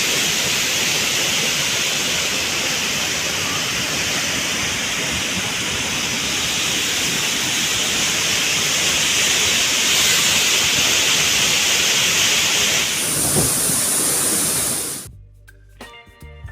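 Waterfall running: a steady, dense rush of water noise with a strong hiss. Near the end it cuts off suddenly and background music with a beat comes in.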